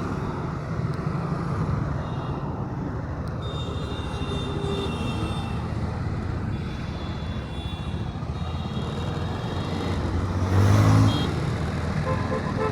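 Steady road and traffic noise heard from a motorbike riding along a main road, with a brief louder surge about ten seconds in.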